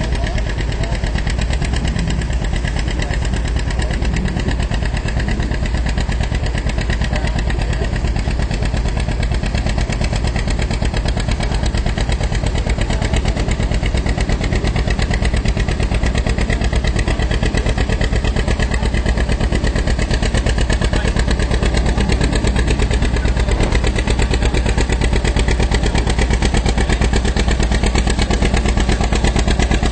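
Farm tractor engine running hard with a fast, steady firing beat, growing slightly louder over the course of the sound.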